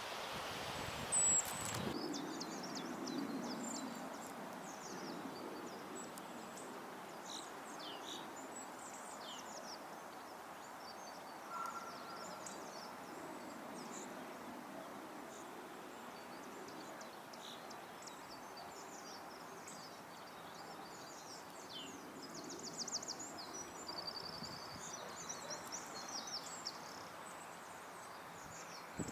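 Small garden songbirds chirping and calling in short, high notes scattered throughout, with a busier run of quick repeated notes about two thirds of the way in, over steady background noise. A single sharp knock sounds just over a second in.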